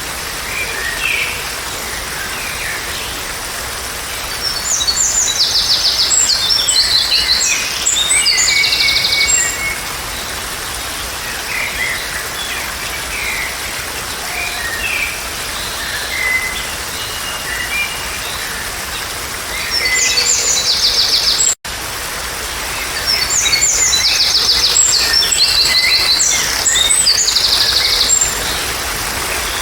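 Songbirds singing over a steady background hiss. Long bouts of high, rapidly trilled song come about 5 seconds in, again near 20 seconds and from about 23 seconds, with scattered chirps between. The sound cuts out for an instant about two-thirds of the way through.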